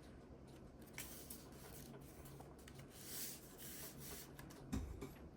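Faint rustling and light taps of card stock being handled and glued down, with a short louder knock near the end.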